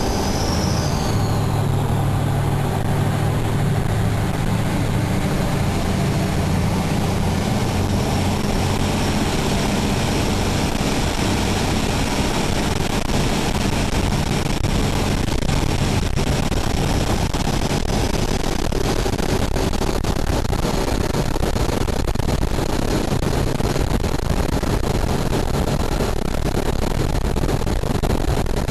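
Jet boat's engines running steadily under a rush of water and wind noise. A high whine splits into a rising and a falling pitch about a second in, and a low hum fades after several seconds.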